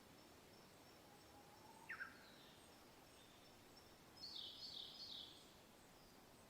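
Birdsong over a faint steady hiss of wind: thin high whistles throughout, a quick falling call about two seconds in, and a run of three bright repeated notes just past the middle.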